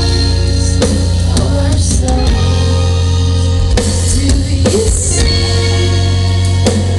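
Live rock band playing at full volume: heavy bass, drum kit and electric guitars with a woman singing, recorded loud and distorted on a handheld camera.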